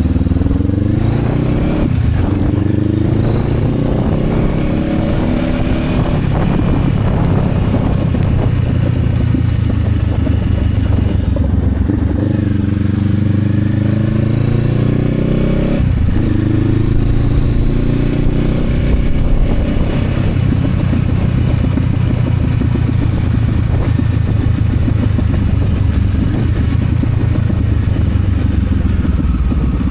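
Honda CB500X's parallel-twin engine accelerating through the gears, its pitch climbing and dropping back at upshifts about two and six seconds in and again around sixteen seconds, then holding steady while cruising.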